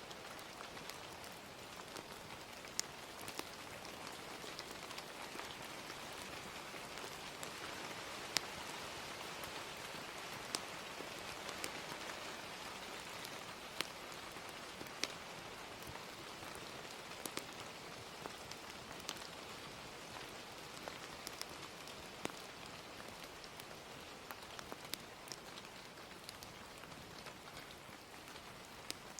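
Steady hiss of gentle rain, with irregular sharp crackles and pops of a fire scattered through it.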